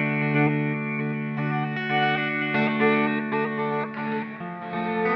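Electric guitar played through an Old Blood Noise Endeavors Sunlight Stereo reverb pedal, with the pedal's modulation applied to the whole signal. Sustained, ringing chords with notes picked over them, and the chord changes about four and a half seconds in.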